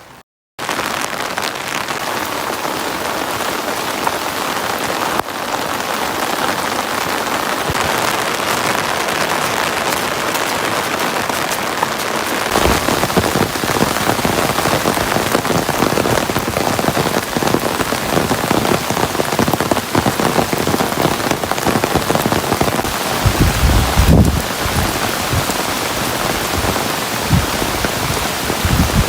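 Heavy rain falling steadily, a dense hiss that starts abruptly just after a brief gap. In the second half it has dull low thumps and rumbles, the strongest about 23 to 25 seconds in.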